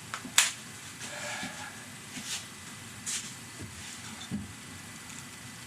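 A few sharp clicks and knocks from hand work on the car, over a steady hiss. The loudest comes about half a second in, with fainter ones spread through the rest.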